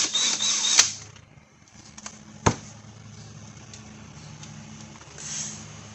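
A screw being worked out of the LED sign's metal side panel: a loud scraping whir in the first second that ends in a click, then one sharp knock about two and a half seconds in, over a steady low hum.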